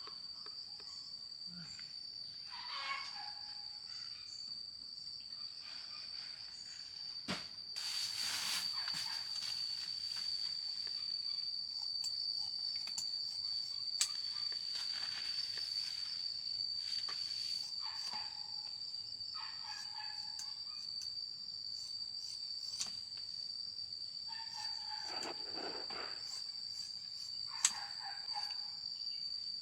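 Steady, high-pitched chirring of insects in the countryside, unbroken throughout, with a few scattered sharp knocks and short rustling noises over it.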